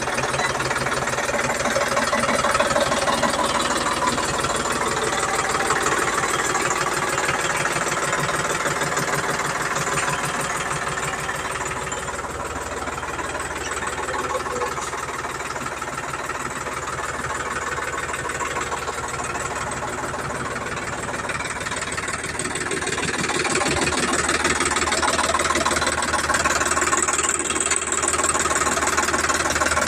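Sonalika tractor's diesel engine running steadily, its tone shifting and growing slightly louder about 24 seconds in.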